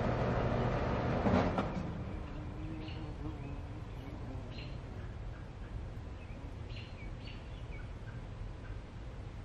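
A low engine-like rumble fades away about two seconds in, followed by a few short, high bird chirps over faint outdoor background noise.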